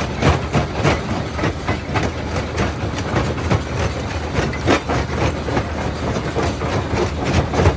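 Primary jaw crusher crushing quarry rock: a steady low drone from the running machine under a dense, irregular stream of cracks, knocks and clatter as stone is broken between the jaws.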